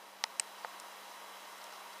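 Steady hiss with a faint low hum, and a few short clicks in the first second.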